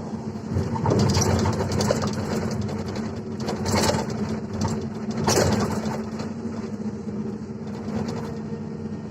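Excavator's diesel engine running steadily, with louder stretches of knocks and scrapes about a second in and around four and five seconds, typical of a bucket digging and dumping.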